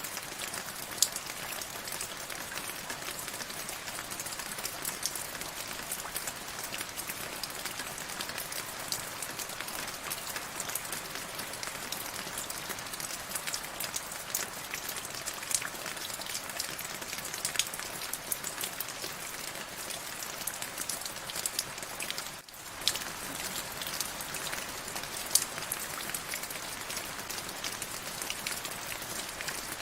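Steady rain falling: an even hiss with many separate drops striking a surface as short sharp ticks. The sound dips briefly a little past two-thirds of the way through.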